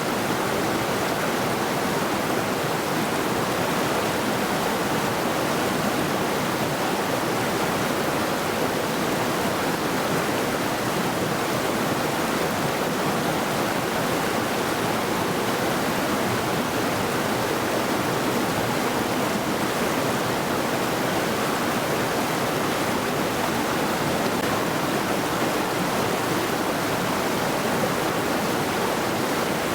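Mountain river rushing steadily over rocks: an even, unbroken wash of moving water.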